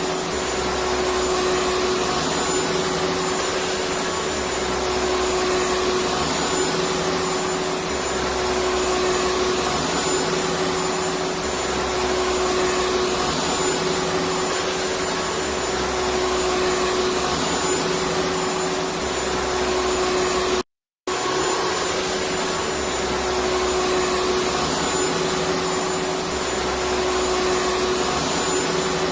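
Vacuum cleaner running steadily: a dense whooshing roar with a constant motor hum and a faint high whistle. The low rumble swells and eases every couple of seconds. About three-quarters of the way through, the sound cuts out completely for a split second.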